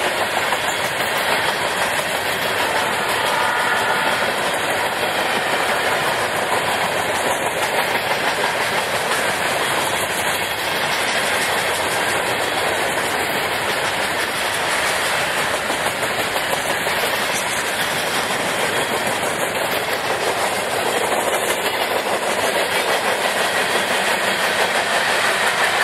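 A rock train, a freight train of cars loaded with stone, rolling steadily past with continuous wheel-on-rail noise.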